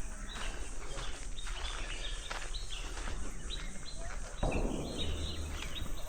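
Birds chirping in short high calls over steady outdoor background noise, with a brief louder rush of noise about four and a half seconds in.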